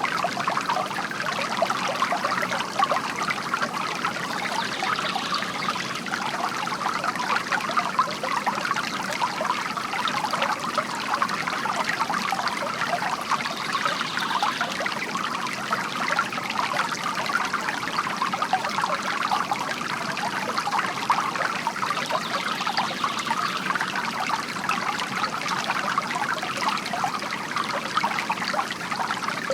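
Water from a bamboo garden fountain trickling and splashing steadily.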